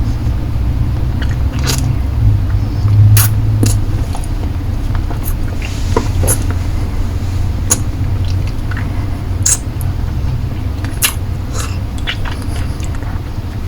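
Close-miked ASMR mouth sounds of sucking and licking a lollipop: irregular wet clicks and smacks, a dozen or so, over a steady low rumble.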